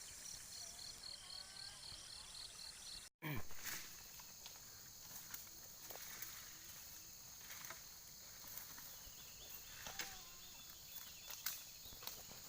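Insects chirping in a fast pulsing rhythm, broken by a sudden short dropout about three seconds in. After it comes a steady high insect hum with scattered faint clicks and knocks.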